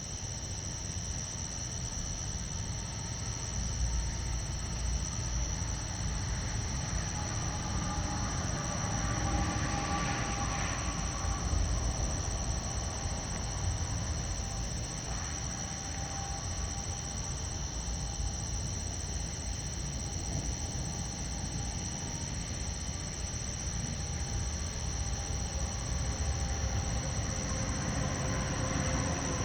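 Outdoor night ambience: a continuous low rumble under a steady high-pitched insect-like drone, with faint pitched tones swelling and fading between about seven and sixteen seconds in.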